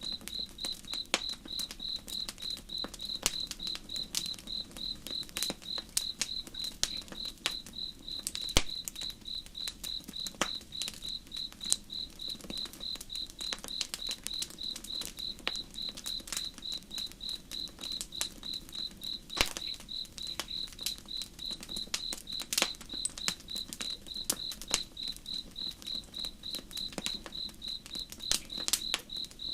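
A cricket chirping steadily, about three chirps a second, over the irregular crackle and occasional sharper pops of a campfire.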